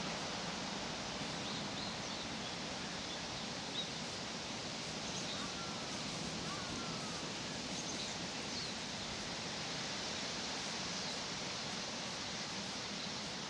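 Outdoor park ambience: a steady, even rushing noise, with a few faint high bird chirps and a couple of short bird calls about five to seven seconds in.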